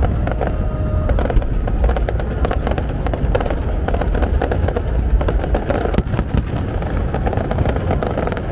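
Fireworks going off in quick succession: a dense, irregular string of sharp pops and crackles.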